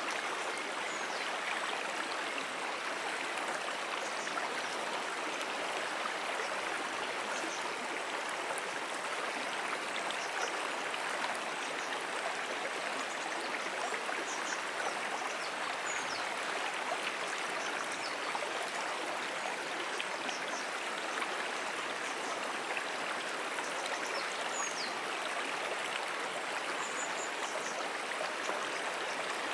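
Moonan Brook's water running and gurgling over stones in a steady, even rush, with faint short high chirps now and then.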